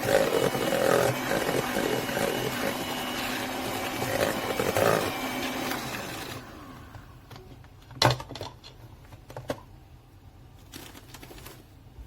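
Electric hand mixer creaming butter and brown sugar, its motor running steadily, then switched off about six seconds in and winding down. After it comes a sharp knock about eight seconds in and a few light clicks.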